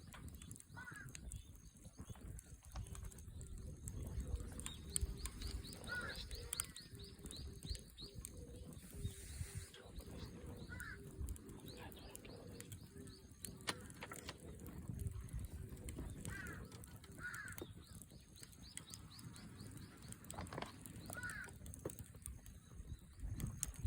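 Birds calling outdoors: short chirps every few seconds and a couple of quick trills of rising notes, faint over a low rumble with scattered small clicks.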